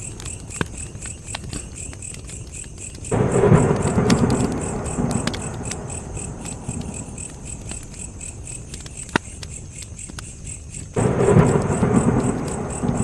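Crackling campfire with scattered sharp pops, under a steady pulsing chirp of crickets. Two rolls of thunder come in, one about three seconds in and one near the end; each starts suddenly and dies away over a few seconds.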